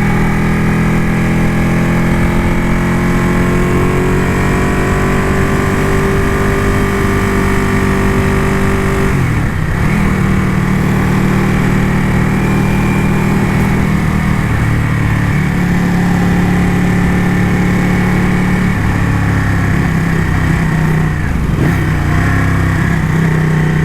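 Ducati motorcycle engine running while riding, its pitch climbing slowly for several seconds, then dropping briefly about nine seconds in and picking up again, with another short dip near the end.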